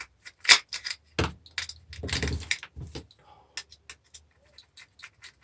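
Hand tools and small metal parts clicking, knocking and scraping while a car battery charger is taken apart to free a small aluminium piece. There is a sharp click about half a second in, a knock just after a second, and a short scraping run around two seconds.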